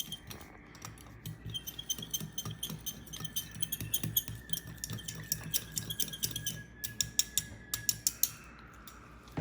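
A small spoon stirring the hand-feeding formula in a small dish, with rapid light clinks and taps that stop about eight seconds in. A faint steady high tone runs underneath until the same point.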